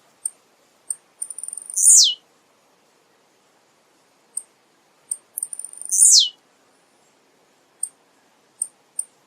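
Male blue-black grassquit (tiziu) singing: a few short, high ticking notes build into a loud call that falls steeply in pitch. This happens twice, about four seconds apart, with more ticks starting near the end.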